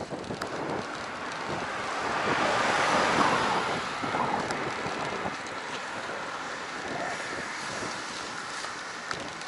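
Rushing wind and road noise on a bicycle-mounted action camera while riding, swelling louder for a couple of seconds about three seconds in, then settling back.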